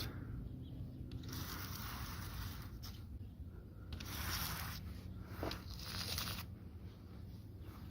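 A razor blade scraping fine dust across a car's painted surface, in repeated strokes of about a second each.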